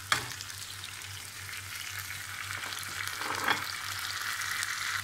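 Sliced onions, tomatoes and habanero peppers frying in a pan, a steady crackling sizzle that grows stronger over the last couple of seconds. A sharp knock sounds right at the start as the vegetables are tipped in, and a smaller one about three and a half seconds in.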